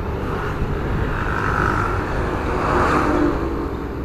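A motor vehicle running steadily with road noise and a low wind rumble on the microphone.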